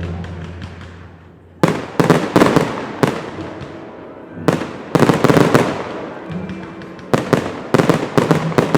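Fireworks shells bursting in a rapid series of sharp bangs, some in quick clusters, each with an echoing tail. Music fades out over the first second and a half, then goes on faintly under the bangs.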